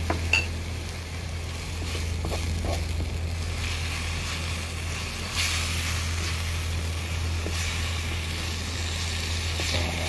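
Chopped vegetables sizzling in a wok over a gas grill while a wooden spatula stirs and scrapes them, with a louder scrape about five seconds in, over a steady low hum.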